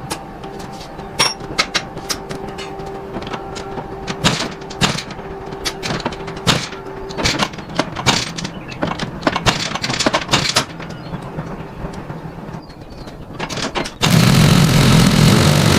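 Irregular metallic clicks and knocks of work on a motorbike, over a faint steady hum. About fourteen seconds in, a three-wheeled motorbike's engine suddenly comes in loud, running at idle.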